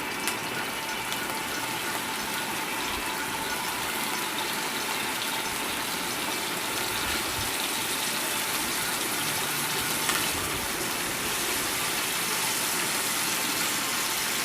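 Marinated chicken pieces sizzling steadily as they shallow-fry in hot oil in a pan.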